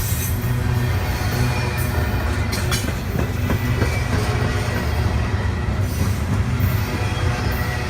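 A train running by with a steady low rumble, and a couple of sharp clicks about two and a half seconds in.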